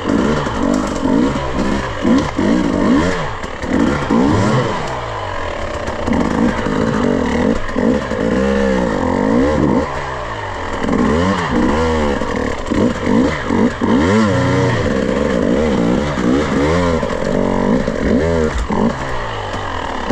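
Off-road dirt bike engine revving up and down over and over as the throttle is opened and closed.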